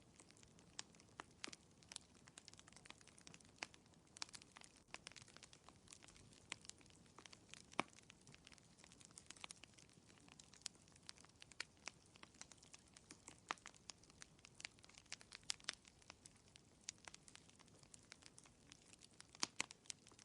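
Wood fire crackling in a fireplace: a soft hiss broken by many sharp, irregular pops and snaps, a few of them louder, about eight seconds in and near the end.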